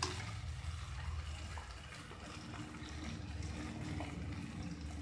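Green chilli, mint and coriander paste frying in oil in an aluminium pot, bubbling and sputtering steadily as it is cooked down until the oil separates.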